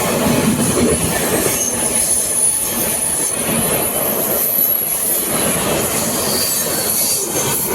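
Express train running through a station at speed, with a steady loud rumble and clatter of wheels on rail. A thin high-pitched wheel squeal wavers over it.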